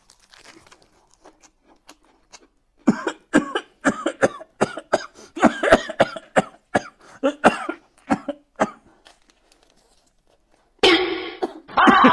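A person coughing in a rapid fit: a long run of short, sharp coughs about three a second, lasting some six seconds. Near the end, music comes in loudly.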